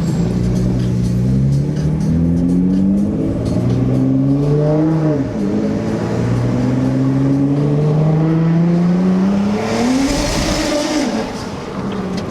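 Straight-piped, tuned Nissan GT-R R35 twin-turbo V6 accelerating hard: the engine note rises, drops at a gear change about five seconds in, and climbs again. Near the end the throttle closes with a short burst of hiss and the revs fall away.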